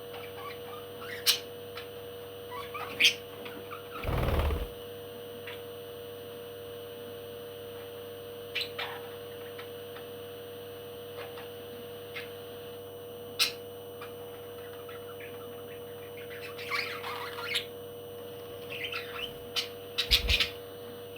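Pet parrot giving short, sharp squawks and chirps every few seconds, more of them near the end, over a steady hum. A brief thump about four seconds in.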